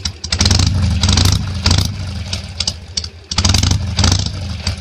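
Harley-Davidson Sportster's air-cooled V-twin engine running, revved up twice over a fast idle pulse, with the freshly changed oil circulating.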